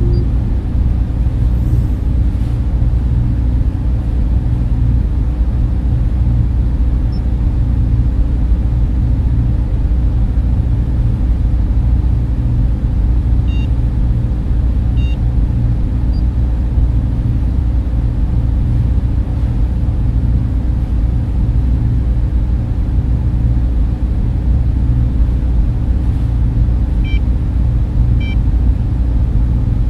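Data center server room ambience: the steady, deep hum and rush of server fans and cooling equipment. A few faint short beeps come through twice, once in the middle and once near the end, two beeps each time.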